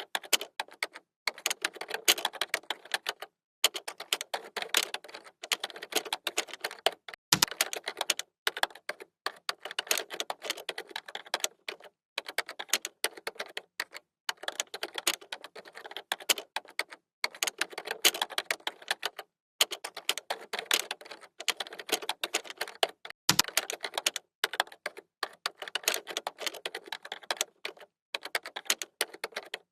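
Fast typing on a computer keyboard: quick runs of key clicks broken by short pauses every second or two, with an occasional heavier key press.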